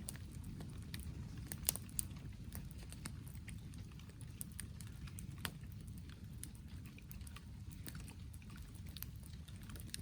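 Wood campfire crackling: irregular sharp pops and snaps, two louder ones about two seconds in, over a steady low background noise.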